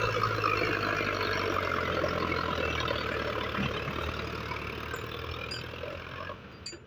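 Tractor diesel engine running hard under load while it works to climb out of deep sand. It has a steady low hum and a rough clatter, and it grows fainter toward the end.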